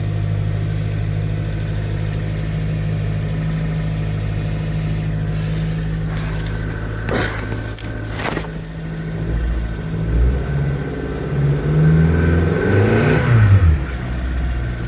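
2011 Kia Sorento engine running at a steady idle just after a cold start in sub-zero cold. Two sharp knocks come about seven and eight seconds in; then the engine speed rises and swings for a few seconds and falls back near the end.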